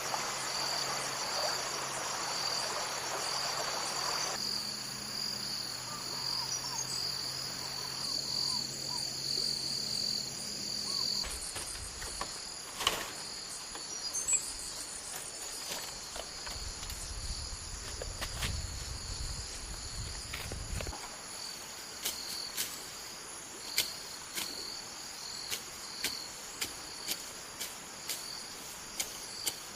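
Insects, likely crickets, trilling steadily in a high, pulsing chorus. Several sharp knocks come in the last few seconds.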